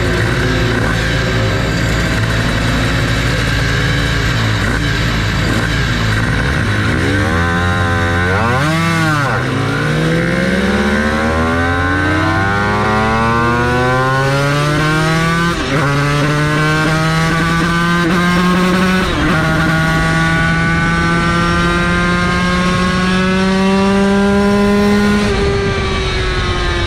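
Yamaha TZ250 two-stroke V-twin race engine running steadily, then revved once briefly about eight seconds in. It then accelerates with the pitch climbing through the gears, with gear changes at about 15 and 19 seconds, and the revs fall away as the throttle closes near the end.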